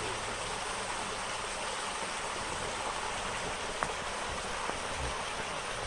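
A creek running steadily over rocks, with a single sharp click nearly four seconds in.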